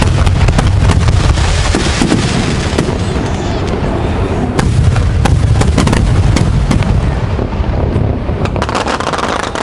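Aerial fireworks bursting in quick succession: a continuous deep booming with many sharp cracks and crackles over it.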